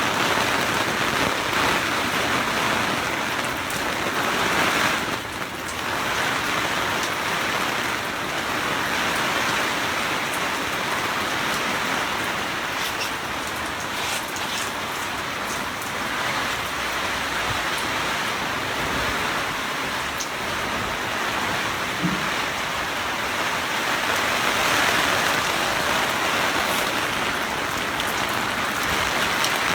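Steady rain falling, an even hiss of drops that holds for the whole stretch.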